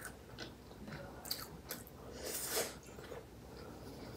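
A person chewing a mouthful of chicken biryani rice with her mouth closed: faint wet mouth sounds and small clicks, with one louder noisy moment a little past halfway.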